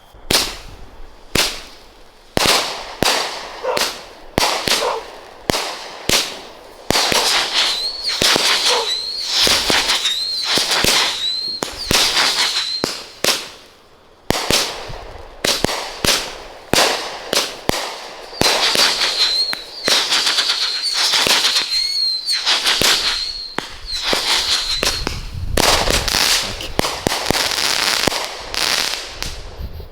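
A 25-shot consumer firework cake firing shot after shot: a fast string of sharp bangs with crackling breaks. A wavering high tone comes and goes in two stretches.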